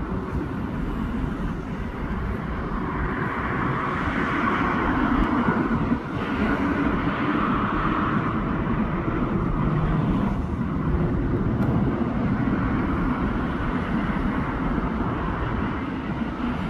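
Road traffic noise, a steady mix of vehicles with swells as cars pass.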